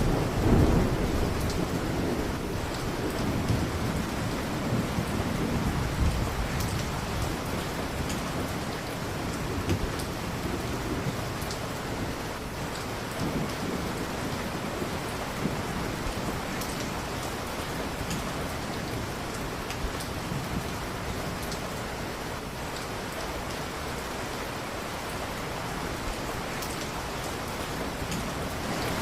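Steady heavy rain with a rolling rumble of thunder over the first several seconds that dies away into the rain. Scattered small crackles of a wood fire sound throughout.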